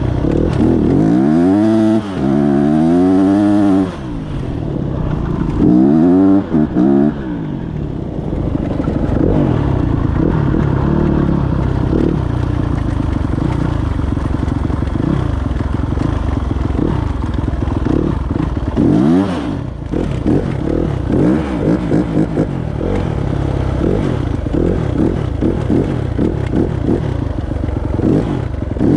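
Yamaha YZ250F single-cylinder four-stroke dirt bike engine running loud, revved up and back down twice in the first several seconds and once more later, with an uneven, choppy note between the revs.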